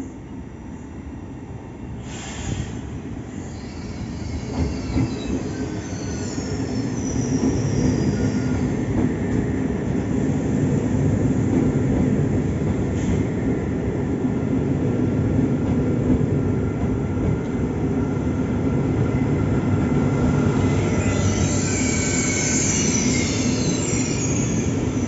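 Italo EVO (ETR 675) high-speed train running slowly into the platform as it arrives at its terminus, its rumble growing over the first several seconds and then holding steady. High squeals from the wheels come at about five to eight seconds in and again near the end.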